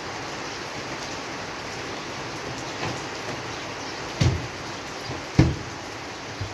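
Steady rain falling, with a few heavier drops landing close by as sharp low taps, the loudest two about four and five and a half seconds in.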